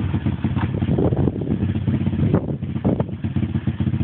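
Pit bike engine running with a rapid, uneven beat, dropping off a little about halfway through and picking up again near the end.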